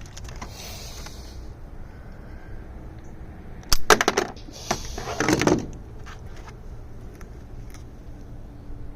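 Small hard objects being picked up and handled, making two short bursts of clicking and rattling, about four seconds in and again about a second later.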